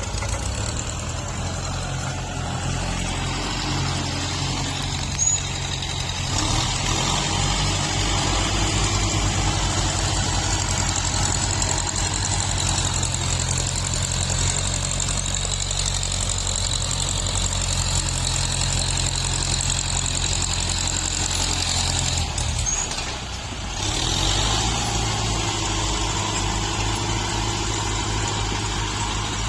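Tractor engine running steadily under work. The loudness dips briefly near the end, then picks up again.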